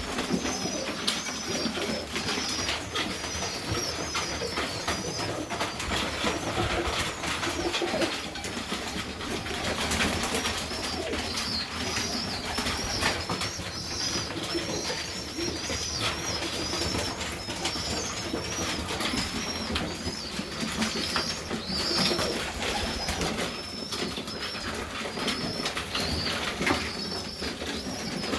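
Serbian highflyer pigeons cooing, over a near-continuous run of high, thin, wavering calls, with scattered rustles and clicks.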